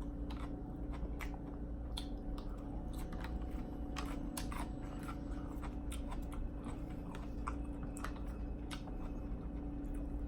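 Close-miked chewing of a mouthful of bulgogi bibimbap, with irregular wet mouth clicks and smacks. A steady low hum runs underneath.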